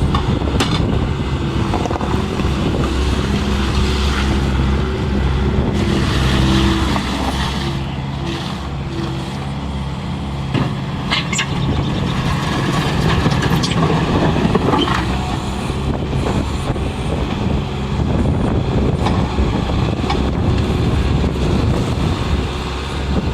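Bobcat skid steer's diesel engine running, its pitch shifting now and then as it works, with a few short clicks and clatters.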